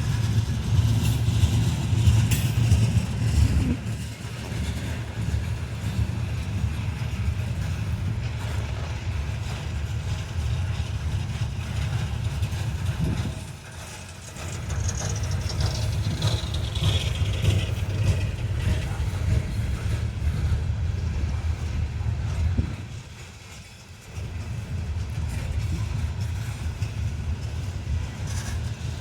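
Coal train rolling through, a steady low rumble that drops away briefly twice, with a faint falling high squeal about halfway through.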